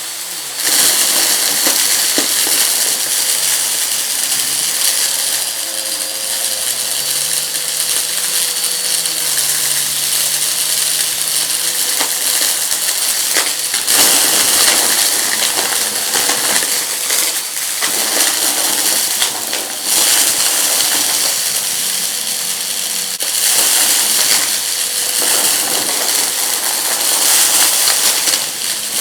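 Vacuum cleaner running on a rug, sucking up crunchy debris that crackles and rattles through the machine over its steady motor noise and faint whine. It gets suddenly louder about half a second in.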